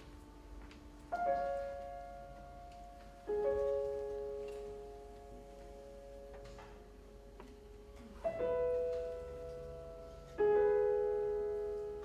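Concert grand piano playing four slow, separated chords, each struck firmly and left to ring and die away before the next.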